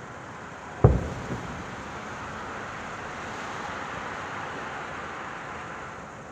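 Firework shell bursting with a loud deep boom about a second in and a smaller bang just after, followed by a steady hiss that swells for a few seconds.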